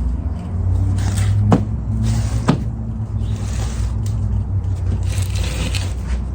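Wooden pieces being handled: two sharp knocks about a second apart and short scraping sounds, over a steady low hum.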